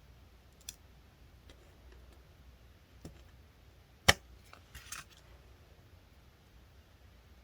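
A few light clicks from small nail-art tools being handled, with one sharp click about four seconds in and a short cluster of ticks just after.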